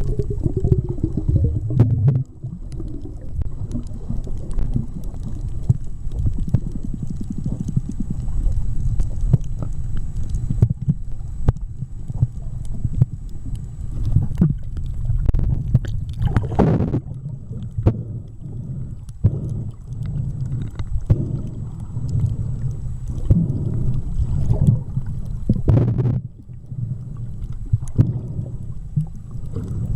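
Underwater water noise picked up by a snorkeller's camera: a continuous low rumbling and gurgling with many small clicks, and two louder rushing surges, one a little past halfway and one near the end.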